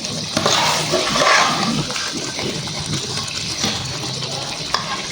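Water running and splashing, louder for the first couple of seconds, with a few light knocks.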